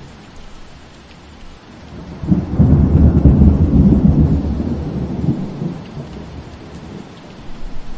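Steady rain with a roll of thunder that comes in about two seconds in, rumbles loudest for a few seconds, then fades back under the rain.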